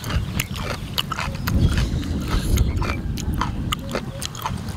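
Close-up eating of raw vegetables: sharp, crisp crunches and chewing over a loud, irregular low rumble.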